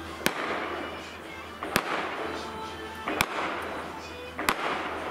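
Aerial fireworks going off in a steady sequence: four sharp bangs about a second and a half apart, each followed by a crackle of sparks that fades over about a second.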